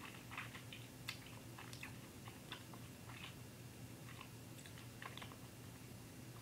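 Faint, irregular mouth clicks and smacks of someone chewing a soft, taffy-like Hi-Chew candy, over a low steady hum.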